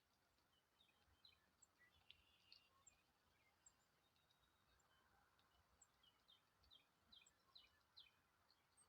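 Faint small songbirds chirping, short high notes scattered through, with a quicker run of chirps near the end over soft outdoor background noise.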